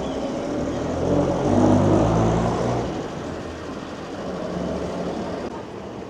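A motor vehicle passing close by, its engine note swelling to a peak about two seconds in and then fading away.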